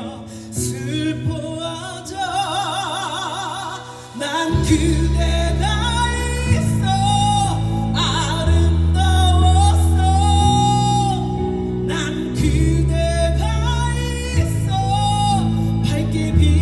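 A female singer sings live with a band: long held notes with a wide vibrato over light accompaniment, then the full band with heavy bass comes in about four and a half seconds in and the singing carries on over it.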